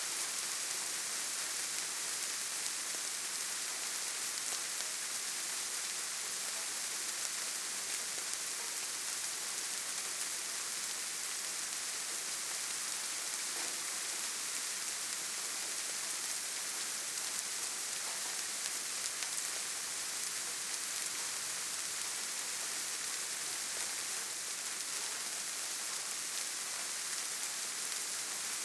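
Steady rain falling, an even hiss of drops without any let-up or separate events.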